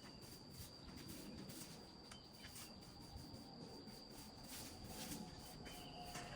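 Quiet background with one steady, high-pitched insect trill, such as a cricket, and faint scattered clicks and rustling.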